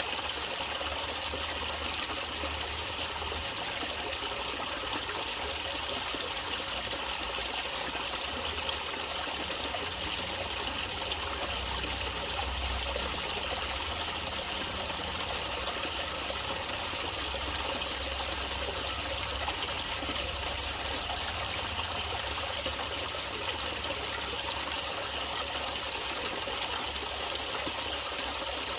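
Water in a natural stream trickling and flowing steadily.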